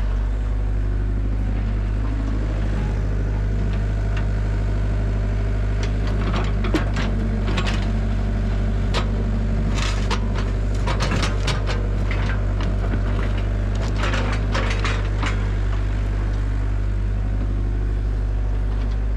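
Caterpillar 307 SSR mini excavator's diesel engine running steadily under digging load, with the bucket scraping and knocking through soil and stones in a run of clicks and scrapes from about six to fifteen seconds in.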